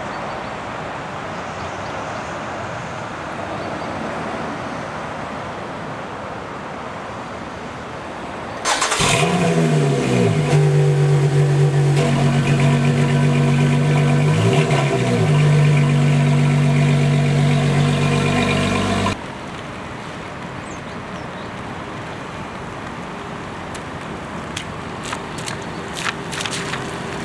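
The Lotus Exige S Club Racer's supercharged 3.5-litre Toyota V6 starting about nine seconds in: it flares, then settles to a steady idle, with a short dip and rise in pitch midway, and cuts off abruptly about ten seconds later. Before and after it there is a steady rushing noise, with a few clicks near the end.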